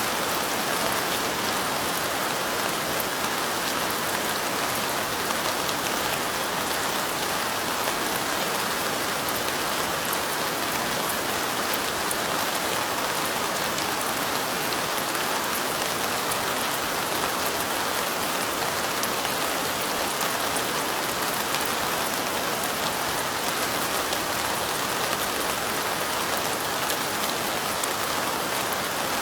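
Steady light rain falling on window glass: a continuous, even hiss with fine ticks of individual drops and no breaks or louder events.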